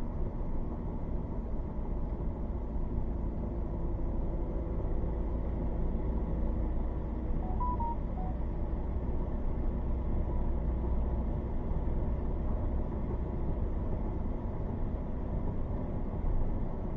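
Steady low rumble of road and engine noise inside a car. A quick run of three or four short electronic beeps comes about seven and a half seconds in.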